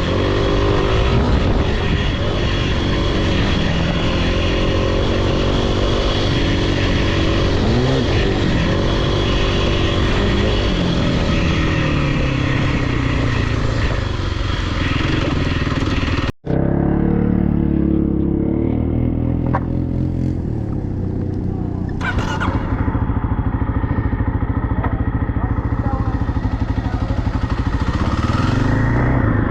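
Off-road vehicle engine revving up and easing off over and over. About sixteen seconds in, a cut switches to a steadier, deeper engine note that pulses unevenly towards the end.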